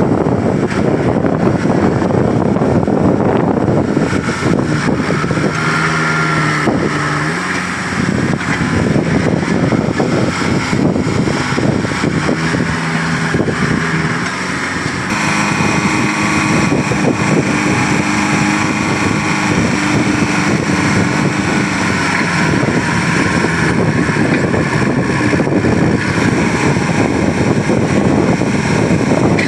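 New Holland TD75D tractor's diesel engine running steadily, its pitch shifting a few times as the engine speed changes.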